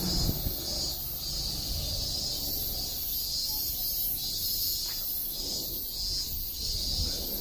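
Insects shrilling high-pitched in even, repeated pulses, over a low rumble.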